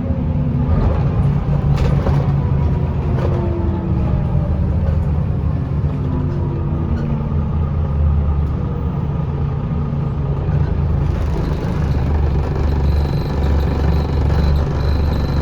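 Scania L94UB bus's diesel engine and ZF automatic driveline, heard from inside the bus. Several whining tones fall in pitch over the first half as the bus slows, then the engine settles into a steady low rumble.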